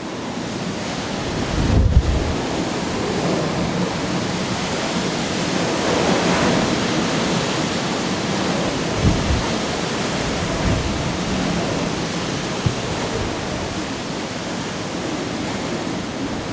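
Typhoon wind and driving rain: a loud, steady rushing noise, with low thumps of gusts buffeting the microphone a couple of times.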